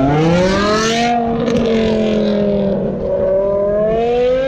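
Car engine accelerating. Its pitch rises over the first second, then holds fairly steady with a small rise again near the end.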